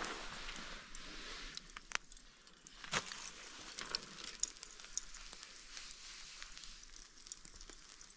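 Wood campfire crackling and hissing, with scattered sharp pops, two louder ones about two and three seconds in.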